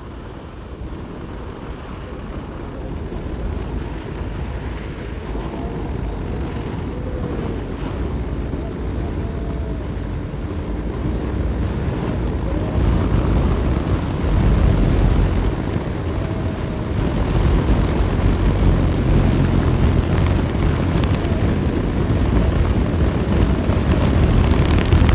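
Road travel noise: a low vehicle rumble with wind buffeting the microphone, growing steadily louder.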